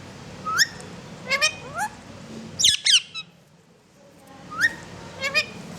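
Pet parrot giving short, sharp, rising squawks in quick groups, the loudest pair about halfway through.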